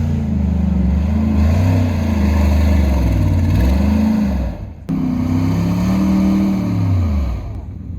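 A Hummer's engine revving hard again and again, its pitch rising and falling, as it tries to pull a trailer up the trail and can't get traction. The sound breaks off suddenly about five seconds in, picks up again, then dies away near the end.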